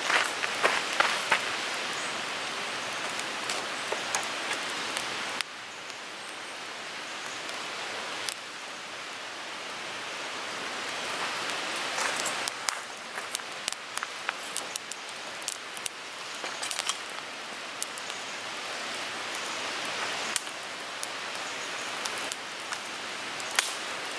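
Wood fire burning in a Picogrill 398 fire pit: a steady hiss with frequent sharp crackles and pops from the burning wood. The overall level drops or steps up abruptly a few times.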